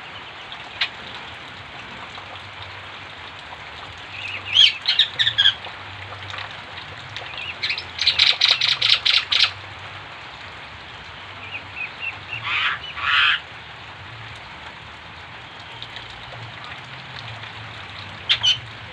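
A myna singing loud, chattering bursts of rapid high notes that mimic other birds' calls, with the longest run about eight seconds in and shorter ones around five and thirteen seconds, over a steady background hiss.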